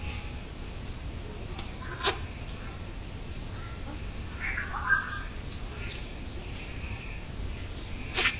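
Steady high-pitched insect trill, with a few sharp clicks and a short burst of chirps about five seconds in.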